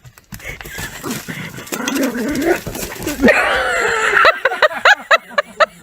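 A dog vocalizing: a wavering, gliding whine or howl, then a fast run of short yips, about five a second, near the end.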